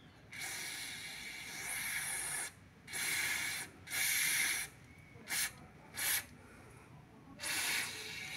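Aerosol spray vaseline lubricant hissing from the can in about six bursts: a long one of about two seconds, two of about a second, two very short puffs and a longer one near the end. It is being sprayed onto the rubber bushing of a Honda Fit's front ball joint to stop the suspension squeaking.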